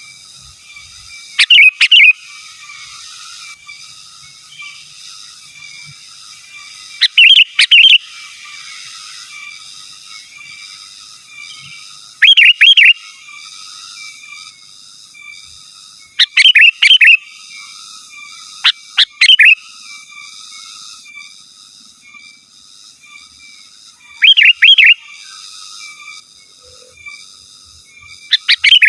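Sooty-headed bulbul (kutilang) calling in loud, short bursts of a few quick liquid notes, repeated seven times about every four to six seconds. A faint steady high-pitched chirring runs underneath.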